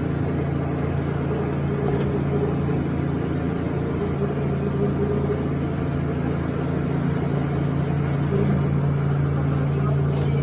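Commercial fully automatic noodle-making machine running, a steady motor hum.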